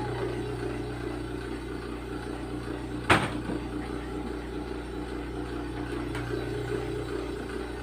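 Steady machine hum with a single sharp click about three seconds in.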